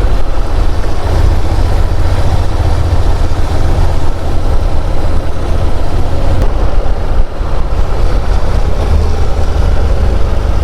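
A Honda NC750 DCT motorcycle riding along, heard from the rider's helmet microphone: the engine running under way mixed with a steady low rumble of wind buffeting.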